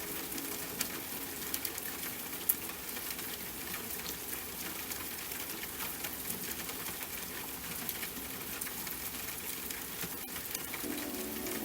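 Steady rain: a dense hiss of falling water with many separate drop ticks and a sharper drop about two and a half seconds in. Soft sustained music notes come back in near the end.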